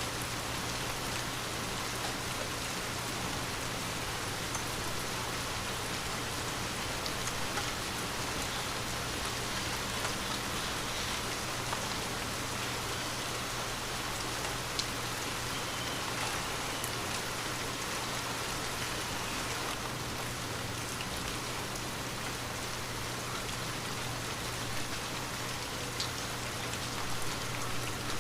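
Light rain falling steadily: an even hiss of rain on surfaces, with scattered sharper ticks of single drops.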